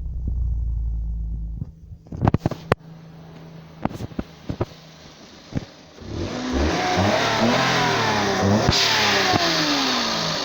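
Toyota 1KR-FE three-cylinder engine running with a low rumble that cuts off abruptly, then several sharp knocks. After that the engine revs loudly, its pitch rising and falling.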